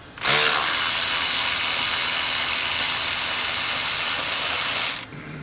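A loud, steady rush of compressed air with a faint high whistle. It starts abruptly just after the start and cuts off sharply about five seconds in.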